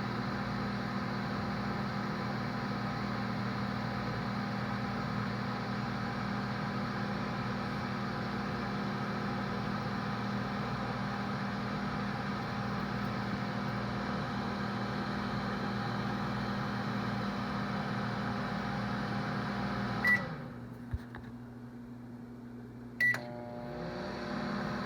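Microwave oven running with a steady hum. About 20 seconds in, a short beep sounds and the hum stops, followed by a click. Some three seconds later another beep sounds and the hum starts up again.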